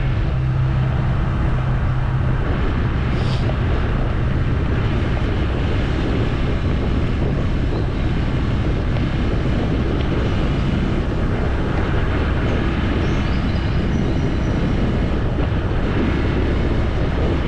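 Steady running noise of a moving vehicle: engine and road noise with wind on the microphone. A low engine hum stands out for the first couple of seconds, then blends into the noise.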